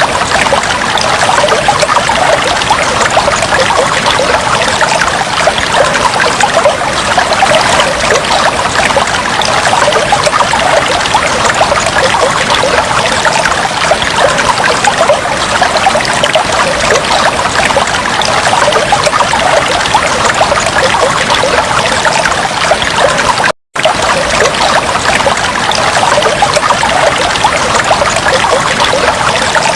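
Fish tank water trickling and bubbling steadily in a dense patter of small splashes. It cuts out for an instant about two-thirds of the way through.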